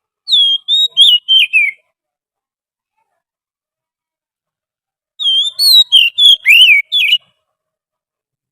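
Oriental magpie-robin song from a lure-call recording: two quick phrases of clear, gliding whistled notes, each lasting under two seconds, the second coming about five seconds after the first.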